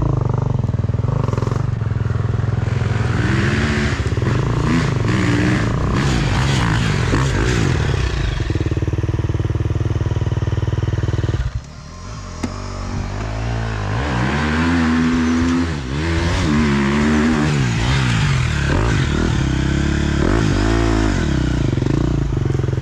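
Enduro dirt-bike engine revving hard, its pitch rising and falling repeatedly as the throttle is worked. About halfway through the engine sound drops suddenly, then builds back up with more revving.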